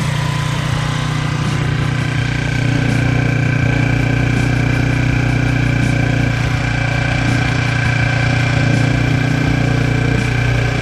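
2023 TransPro 50cc four-stroke scooter engine idling steadily while it warms the oil for draining. It gets a little louder, with a higher whine coming in, about two and a half seconds in.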